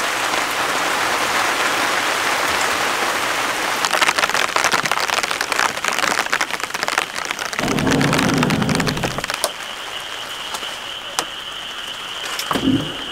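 Heavy rain pouring down, a dense hiss with many sharp drop ticks. A brief low rumble comes about eight seconds in, and a steady high tone joins near the end.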